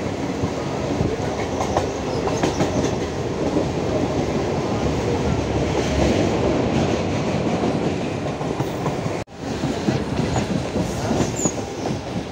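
Mumbai suburban electric local train passing close by, with a steady loud rumble of wheels on the track. There is a momentary dropout about nine seconds in.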